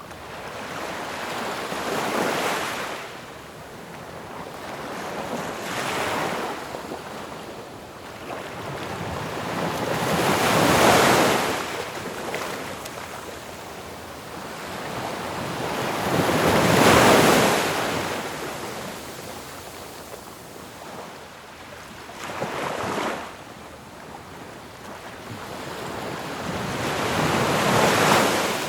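Ocean waves breaking on a shore one after another, about six in turn, each a rising and falling rush of surf hiss, the strongest a third and a half of the way through and near the end.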